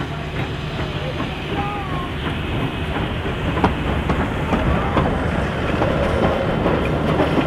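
A train running on the line, growing slowly louder, with a steady low hum and scattered sharp clicks of wheels over the rails.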